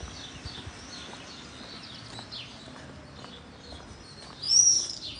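Small birds chirping and twittering in quick, high, falling chirps, with one loud shrill call about four and a half seconds in.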